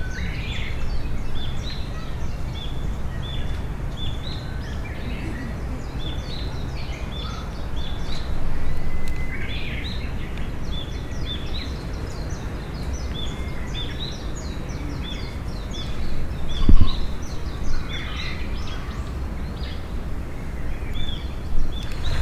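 Birds chirping in the trees, many short calls repeated over and over, over a steady low rumble. A single sharp knock sounds about three-quarters of the way through.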